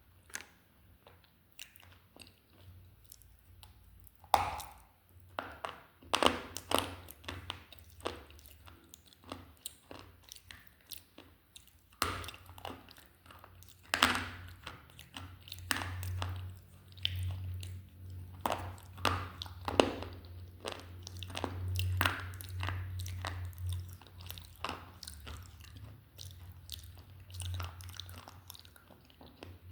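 Slate pencil being bitten and chewed close up: sharp, irregular crunches and crackles as the brittle slate breaks between the teeth.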